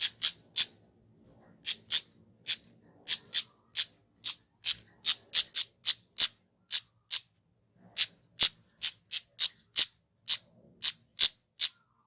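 Flowerpecker (kemade) calling: a long run of short, sharp, high-pitched notes, about two or three a second at uneven spacing.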